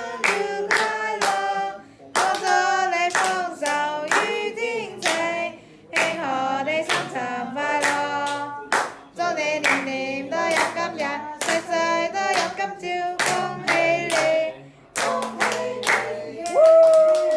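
A small group singing a birthday song while clapping along in a steady beat, ending on a long held note near the end.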